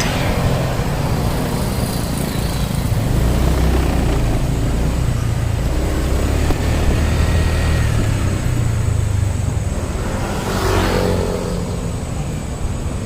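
Honda Click 125i scooter's single-cylinder engine running while riding, its pitch drifting up and down, under steady road noise. A brief rush of noise comes about ten seconds in.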